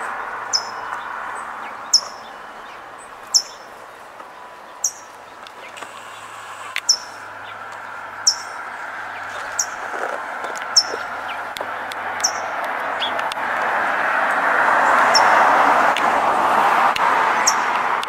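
A songbird repeating a short, high chirp that drops in pitch, about once every second and a half, over a steady background noise that grows louder in the second half.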